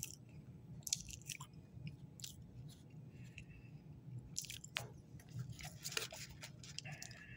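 Faint chewing of a mouthful of cookie, with scattered soft mouth clicks.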